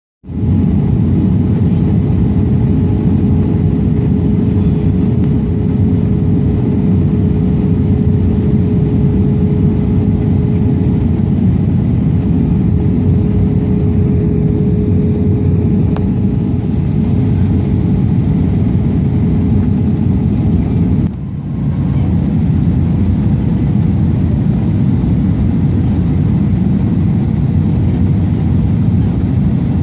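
Steady, loud, low engine drone with a constant hum on top, dipping briefly about two-thirds of the way through.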